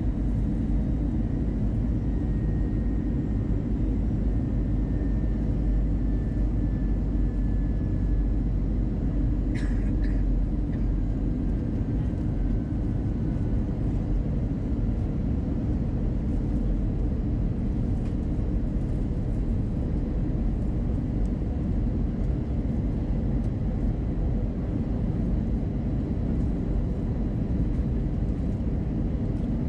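Steady cabin noise inside an Airbus A320-212 in flight: a deep, even rumble of airflow and the CFM56 engines, with a faint high whine slowly dropping in pitch. A single short click about ten seconds in.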